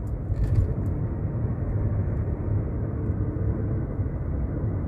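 Steady low rumble of road and engine noise inside a moving car's cabin while cruising on a highway.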